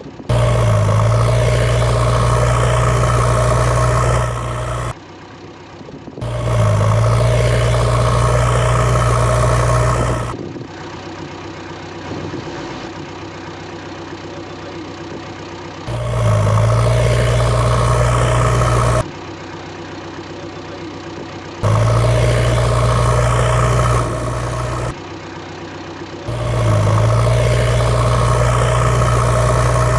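Engine running steadily, in loud stretches with a strong deep hum that start and stop abruptly, alternating with quieter engine noise.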